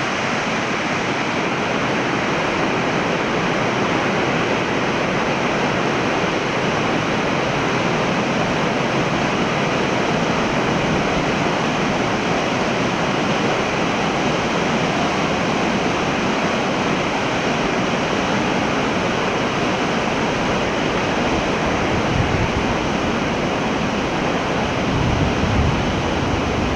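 Waterfall's water pouring in a steady, loud rush. A few low bumps come near the end.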